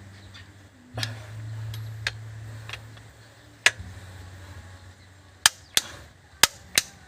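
Sharp metallic clinks of hand tools, about eight, irregularly spaced and loudest in a quick cluster near the end, over a low steady hum that swells about a second in and then fades.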